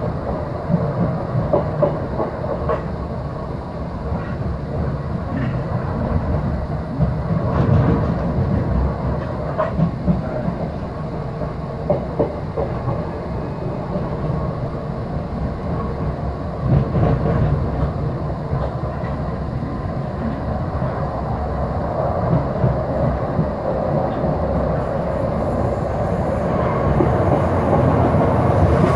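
Passenger train heard from inside the carriage: a steady running rumble with scattered clacks of the wheels over rail joints. It grows louder near the end as a high wheel squeal comes in.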